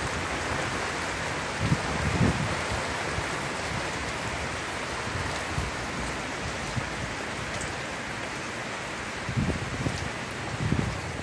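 Steady heavy rain pouring down on the yard and porch roof during a thunderstorm. A few short, low gusts of wind buffet the microphone, about two seconds in and again near the end.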